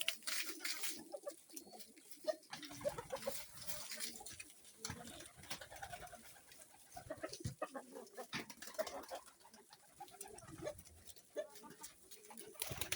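Low cooing bird calls, repeated at intervals, among scattered soft clicks and rustles.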